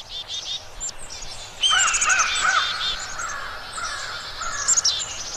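Several birds calling at once: quick high chirps throughout, joined about a second and a half in by louder, repeated arching calls.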